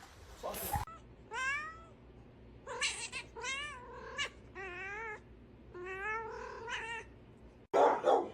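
A domestic cat meowing over and over, about six calls. Several of the calls fall in pitch and one wavers.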